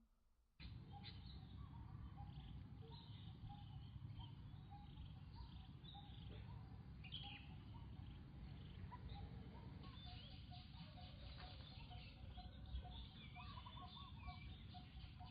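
Faint outdoor ambience with several birds chirping and calling over a steady low background noise, starting suddenly about half a second in after near silence; near the end a bird repeats short notes in an even series.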